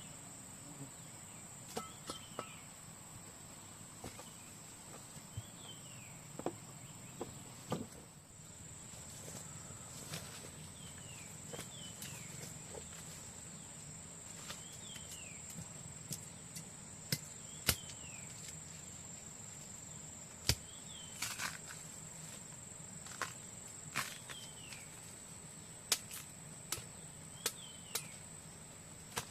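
Outdoor ambience: a steady high insect drone, with a short falling call repeated about every two seconds, most likely a bird. Scattered sharp snaps and knocks, the loudest sounds, come irregularly, more often in the second half.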